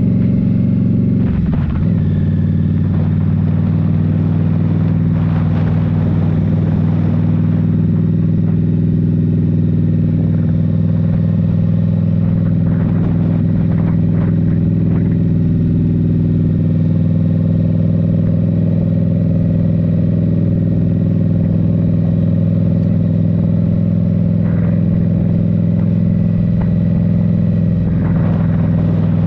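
Indian Scout Rogue's 69 cu in V-twin engine running steadily under way through a Rinehart slip-on exhaust, with a brief dip in engine pitch about a second and a half in.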